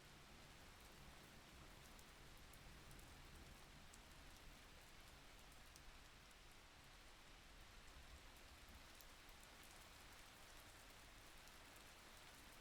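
Faint, steady rain, with scattered small drop ticks.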